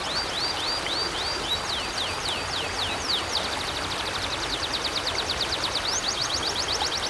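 A river flowing steadily, with a small bird singing a long trill of quick, high, downward-sweeping notes over it: about four notes a second at first, speeding to a fast run from about three seconds in.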